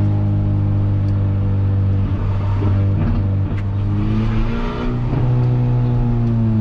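Peugeot 206 1.4 four-cylinder engine running through a straight-pipe exhaust with no muffler while driving. It holds a steady drone, wavers about two seconds in, then climbs in pitch between about three and five seconds in as it is accelerated, and settles again.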